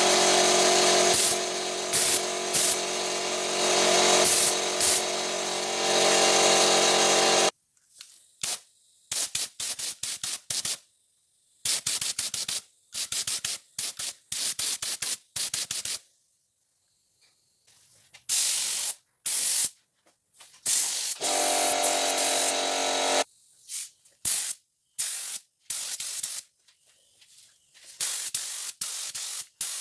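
A machine running with a steady hum and hiss, then a series of short bursts of spraying hiss, each cut off suddenly, with the humming machine returning briefly near the middle.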